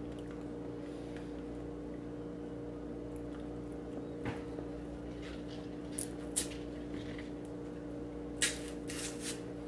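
Eating noises from a man chewing bananas: a handful of short, soft wet clicks and smacks about four, six and eight to nine seconds in, over a steady low hum.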